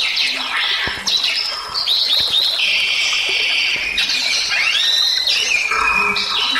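Bali myna (Bali starling) in full song: a loud, unbroken run of harsh whistles and chattering calls with sweeping rising and falling glides, and one long held note about halfway through.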